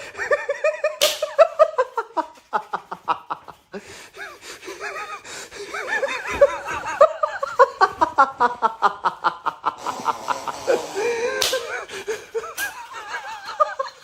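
People laughing and stifling snickers in rapid, pulsing bursts, several voices overlapping at times, with a few sharp smacks: one about a second in and two near the end.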